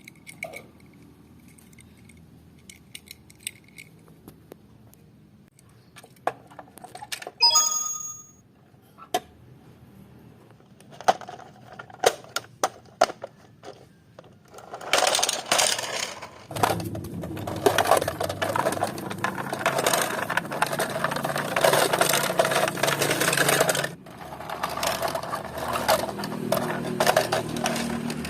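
Small die-cast metal toy cars clicking and clinking as they are handled, with a short ringing tone about a quarter of the way in. About halfway through a louder, continuous rattling with a low hum takes over, breaking off briefly near the end.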